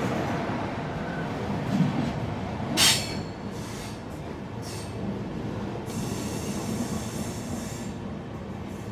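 Mangala Express passenger train running, with a steady rumble of the coaches. A short, sharp, loud high noise comes just under three seconds in, and fainter high wheel squeals follow through the middle and later part.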